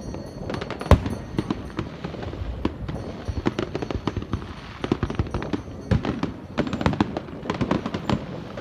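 A dense, irregular series of sharp pops and cracks, the loudest about a second in.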